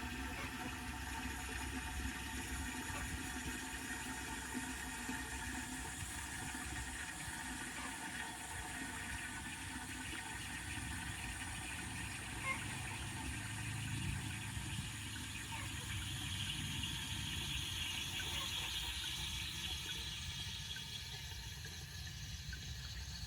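Water running steadily in a W & J Lawley '402' cast iron toilet cistern, a continuous hiss like the cistern filling.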